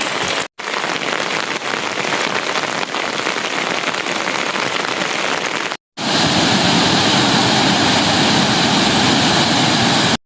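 Steady rain falling, an even hiss of water, cut off abruptly twice; after the second cut, about six seconds in, it is louder and fuller.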